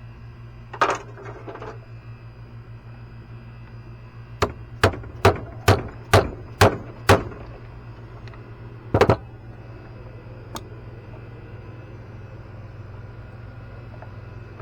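Hammer striking metal: one blow about a second in, then a run of seven sharp strikes about two a second, and a heavier double blow a couple of seconds later. A steady low hum runs underneath.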